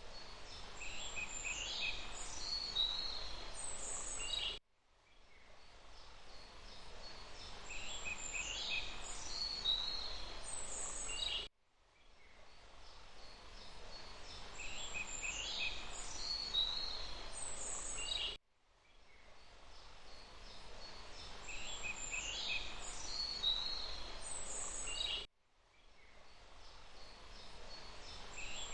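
A short forest-ambience loop of about seven seconds repeated four times: a steady hiss of running water with a few songbird chirps and trills. Each repeat fades in and cuts off abruptly.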